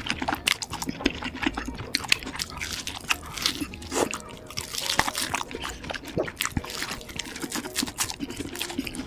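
Person eating at close range: crunchy bites and wet chewing and smacking, a quick irregular run of crackles and clicks.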